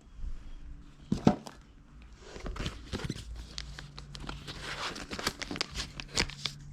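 Close rustling, scuffing and clicking, with one sharp knock about a second in.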